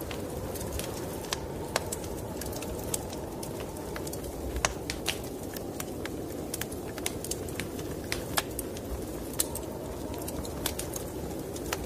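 Wood fire in a fireplace crackling, with sharp irregular pops several times a second, over a steady low rush of snowstorm wind.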